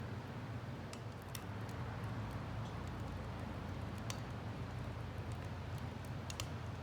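Wood fire burning in a homemade Solo Stove-style can stove: scattered sharp crackles and pops over a steady low rumble.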